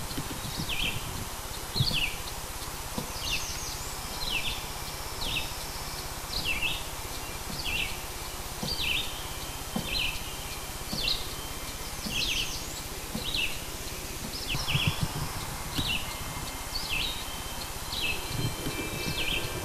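A bird repeating a short falling chirp about once a second over steady outdoor hiss, with occasional low thumps.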